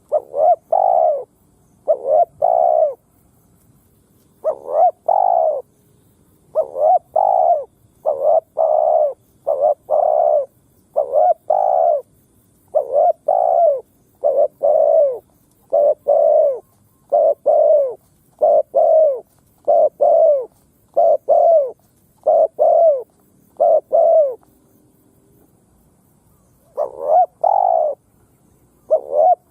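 Spotted dove (Streptopelia chinensis) cooing over and over, loud and close, in quick phrases of two or three notes, with a pause of about two seconds near the end before the cooing resumes.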